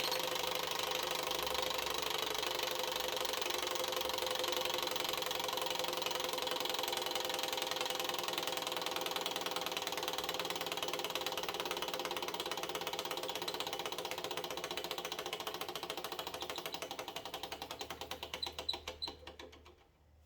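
Model Stirling engine running with a fast, even mechanical clatter from its unlubricated bearing. Over the last few seconds the beats slow and fade, and it stops about 19 seconds in.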